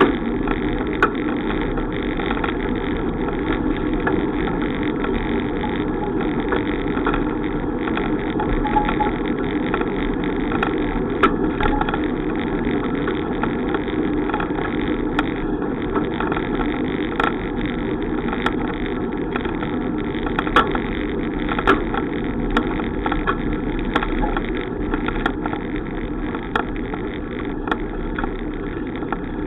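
Steady wind and road noise from a bicycle ride in progress, with scattered short clicks or rattles.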